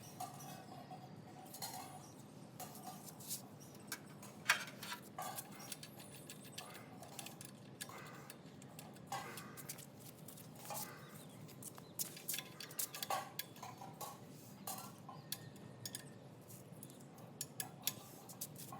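Faint, irregular light clicks and metallic clinks, a few of them a little louder; no engine is running.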